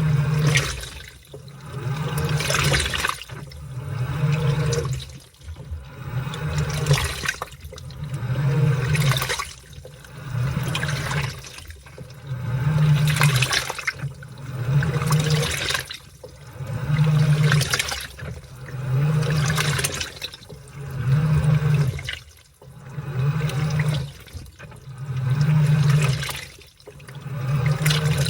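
Washing machine churning a load of laundry in water, its motor running in strokes about every two seconds with a short pause between. Each stroke brings a low motor hum and water sloshing.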